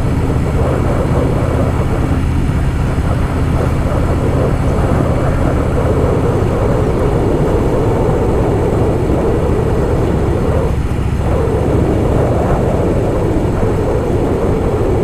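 Harley-Davidson Softail Fat Boy's V-twin engine running at a steady cruise, with wind rushing over the helmet-mounted microphone.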